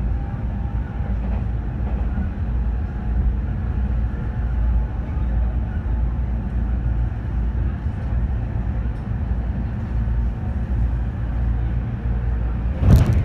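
Inside an E217-series electric commuter train running at speed: a steady low rumble of wheels and running gear on the rails. Near the end, a brief loud rush of noise.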